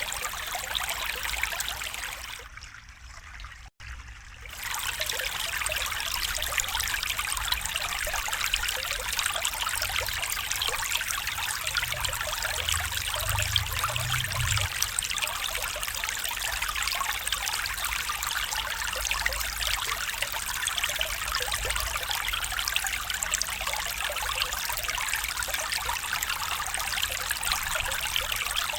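Small stream trickling and babbling steadily. The sound briefly dips low about three seconds in, then comes back at the same level.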